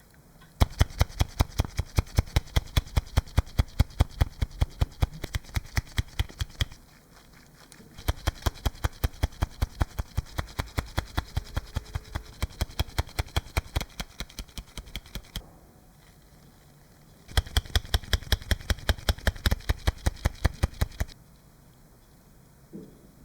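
Rapid, even clicking, about seven clicks a second, in three runs of several seconds each with short pauses between, over a faint hum.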